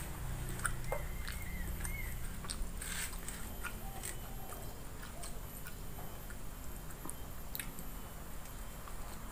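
A person chewing and eating by hand, with soft wet mouth sounds and scattered small clicks and smacks.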